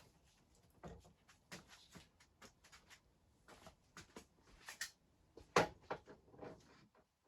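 Irregular small clicks and knocks of hands handling the motorcycle's fuel petcock and tank, with one louder knock about five and a half seconds in.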